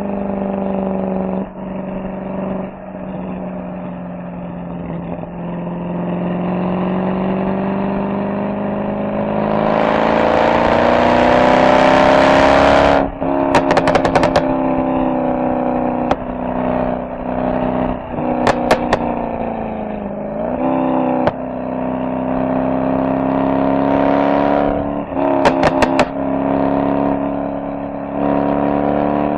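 Mercedes-AMG SL63's V8 engine and exhaust under way, the pitch dropping and rising with the road; about ten seconds in it pulls hard to a loud peak, then lifts off suddenly into short bursts of sharp exhaust crackles, which come again twice more as the throttle is eased.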